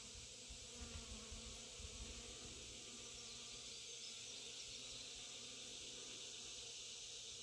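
Bees buzzing faintly over a steady high hiss, with a few low rumbles in the first two seconds.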